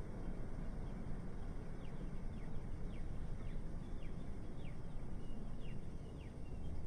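Steady low city traffic rumble with a small bird chirping repeatedly over it, short falling notes a little more than once a second.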